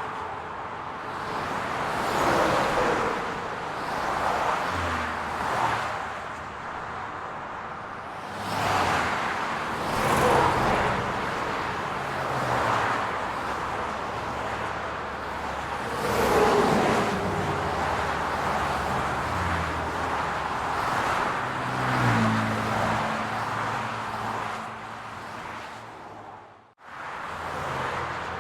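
Urban road traffic: cars passing one after another, their tyre and engine noise swelling and fading every few seconds over a low engine hum. The sound drops out briefly near the end.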